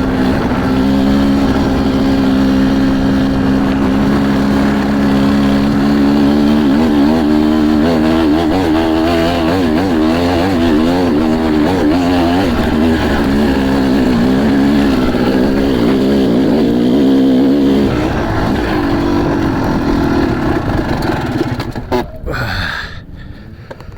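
Motocross bike engine running, at a steady pitch at first, then rising and falling in pitch as it is revved and ridden. The engine fades away in the last quarter.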